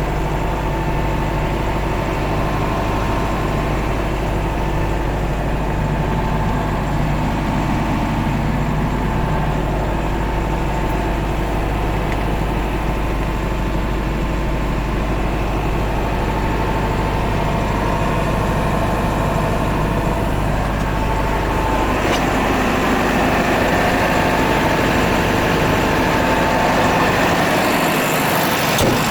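Heavy engine idling steadily. Its tone changes about 22 seconds in, and the deepest hum drops away near the end.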